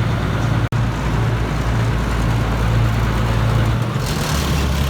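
Diesel engine of the Botchan Ressha replica steam locomotive running with a steady low hum. The sound drops out for a moment about a second in, and the lowest part of the hum shifts near the end.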